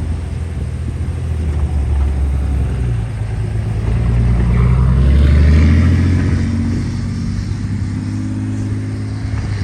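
Northbound CN mixed freight train rolling past with a steady low rumble. The rumble swells to its loudest about halfway through, then eases off a little.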